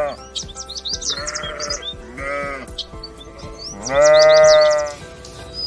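Sheep bleating: two short bleats, then a long, loud bleat about four seconds in.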